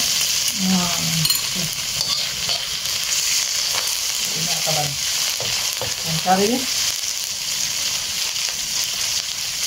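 Garlic and leaves sizzling in hot oil in an aluminium wok, stirred with a metal slotted spatula that scrapes against the pan now and then.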